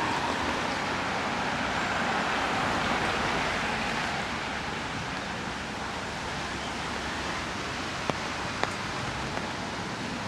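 Tyre hiss of passing traffic on a wet road, fading over the first four seconds into a steady hiss. Two small sharp ticks near the end.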